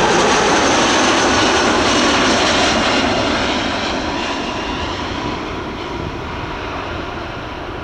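Airbus A320 jet engines passing close on landing, then fading steadily as the aircraft moves away.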